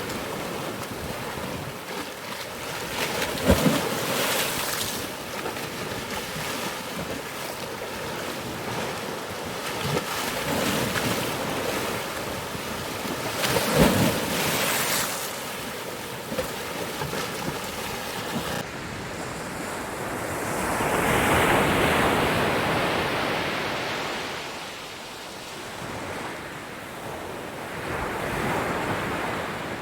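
Ocean waves breaking on a shore over a steady hiss of surf, with two sharp loud crashes, one a few seconds in and one about halfway through. Near two-thirds of the way through the sound changes abruptly to a softer, duller wash of surf that swells up and slowly fades, then swells again near the end.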